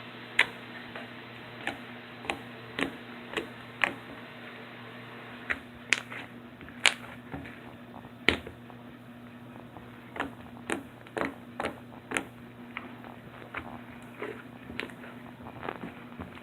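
Glossy glue slime being kneaded and stretched by hand, giving irregular sharp clicks and pops as trapped air bubbles burst, over a steady low hum.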